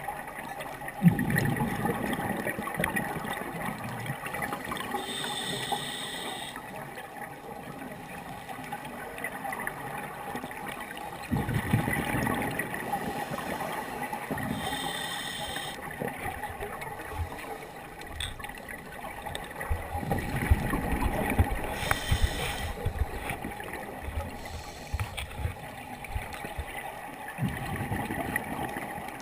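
Scuba diver breathing through a regulator underwater: a short hiss on each inhale and a rush of bubbles on each exhale, in a slow rhythm of about one breath every eight or nine seconds, four exhales in all.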